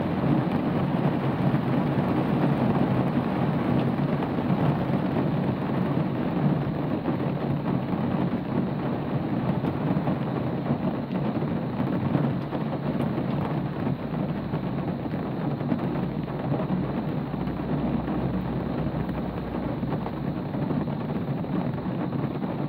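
Steady rain falling, an even dense hiss with no separate drops standing out. A low rumble underneath grows a little stronger in the second half.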